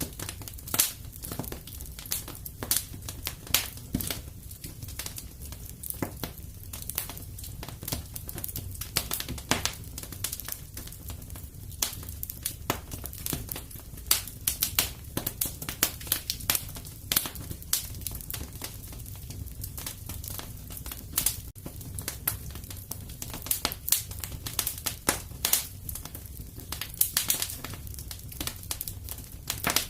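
Wood fire crackling in a fireplace: irregular pops and snaps, several a second, some sharper and louder than others, over a low steady rumble.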